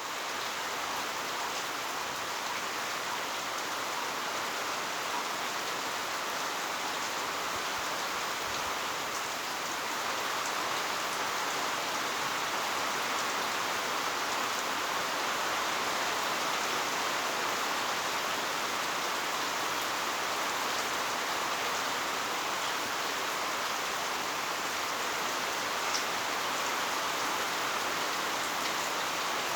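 Heavy rain falling steadily, a dense even hiss of drops on the ground and surfaces, growing slightly heavier about ten seconds in.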